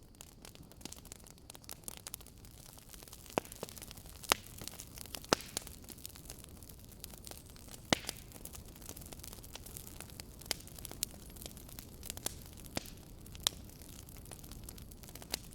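Wood fire burning with irregular sharp crackles and pops over a low steady hiss, the loudest pops coming about four seconds in and again near eight seconds.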